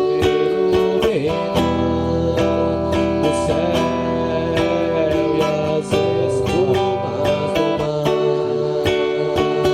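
Music: acoustic guitar strummed in a steady rhythm under a held melody line that slides in pitch.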